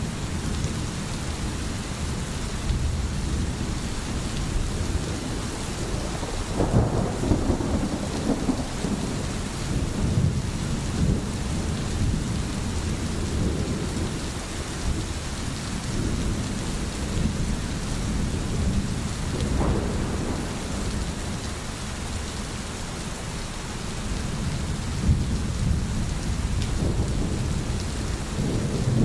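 Steady rain in a thunderstorm, with low rumbles of thunder swelling now and then.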